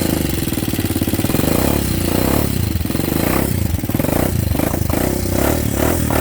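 Hawk 250 motorcycle's single-cylinder engine running on its stand, a steady drone that takes on a pulsing beat about twice a second from about two seconds in.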